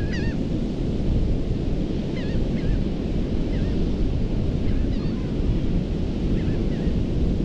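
Ocean surf breaking on a sandy beach with wind buffeting the microphone, a dense steady rumble. Short wavering bird calls sound several times over the top, in pairs about a second apart.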